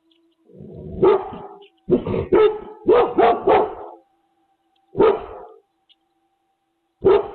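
A dog barking in bursts: one bark about a second in, a quick run of five or six, a single bark a little later, and another run starting near the end.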